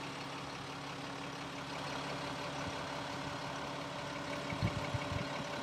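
Caterpillar 3126B six-cylinder turbo diesel of a military 6x6 wrecker truck idling steadily, with a few low thumps a little after four and a half seconds in.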